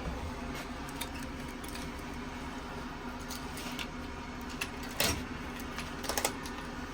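1972 O&K V12 diesel engine running steadily with an even low rumble. Scattered metallic clicks and jingling sound over it, loudest about five seconds in and in a quick cluster around six seconds.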